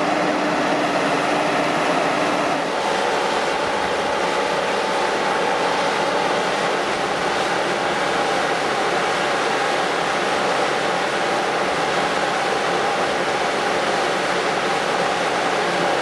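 Boat travel lift's engine running steadily while the yacht hangs in its slings, a continuous machine noise that shifts slightly about three seconds in.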